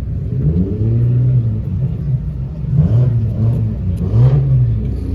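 Car engine revving in repeated throttle blips, its pitch rising and falling several times.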